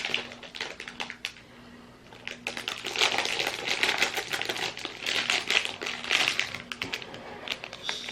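Snack packaging being handled: crackling and rustling of wrappers and plastic in quick bursts, with a short lull a second or two in.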